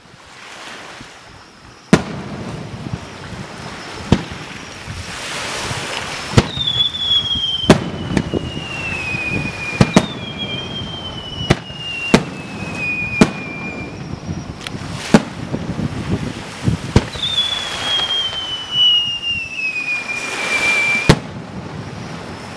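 Aerial firework shells bursting in the sky, a sharp bang every second or two. A crackling haze fills the gaps, and three long whistles fall slowly in pitch.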